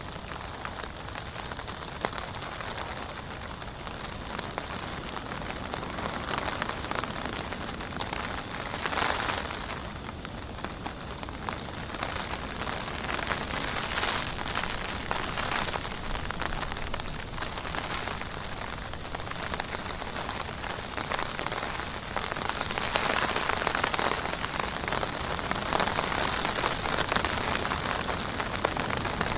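Heavy rain falling steadily, a dense spray of drops striking a surface. It swells louder briefly about a third of the way in, then again for most of the last third.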